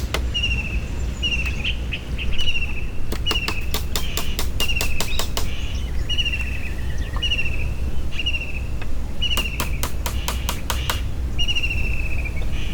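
A bird repeating a short, falling, trilled call about once a second, with bursts of rapid clicking in between and a steady low rumble underneath.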